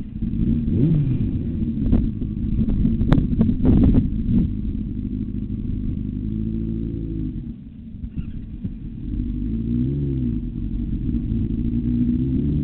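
Motorcycle engine revving up and down, its pitch rising and falling, over a heavy low rumble, with a few sharp knocks about three to four seconds in.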